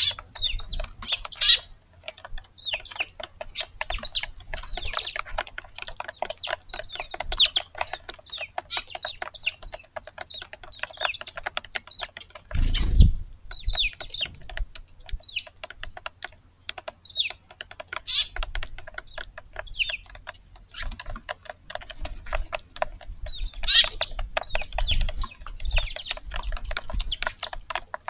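Eurasian tree sparrows chirping over a dense, rapid patter of small clicks, with a low thump about halfway through and another near the end.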